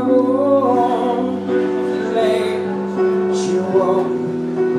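Live band music with a voice singing long, wavering notes over steady held chords. The vocal line fades out about halfway through and the chords continue.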